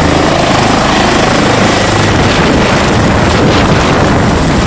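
Helicopter rotor and engine noise, loud and steady with a rapid fluttering chop.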